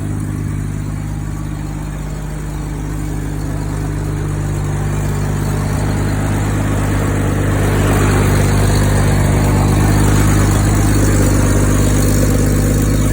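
Old International truck engine running steadily just after being brought back to life after 50 years sitting; it grows somewhat louder around the middle and stays there.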